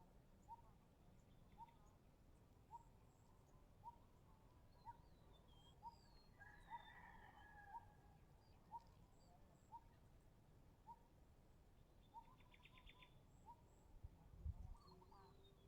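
Faint bird calls: one short call repeats about once a second, with a few higher chirps around the middle. A low thump comes near the end.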